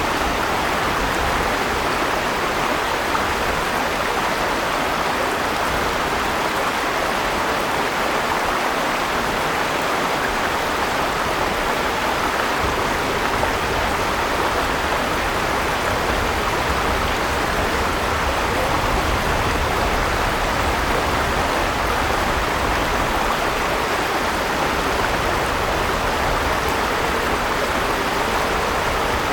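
River water flowing over stones, a steady rushing that does not change in level.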